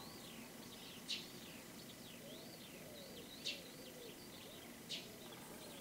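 Small birds chirping and calling faintly, with a few sharper chirps standing out about a second in, in the middle and near the end. Fainter, lower calls run through the middle.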